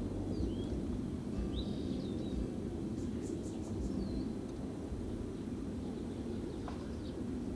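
Outdoor ambience: a steady low rumble with a few short, pitch-sliding bird chirps, mostly in the first two seconds and once more about four seconds in.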